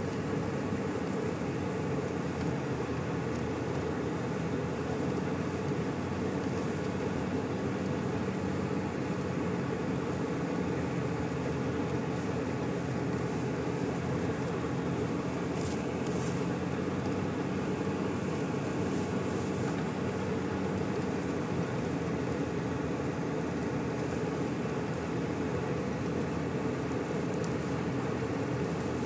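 Steady engine and road noise heard inside a car's cabin while driving on snowy streets, an even hum with no changes in speed or pitch.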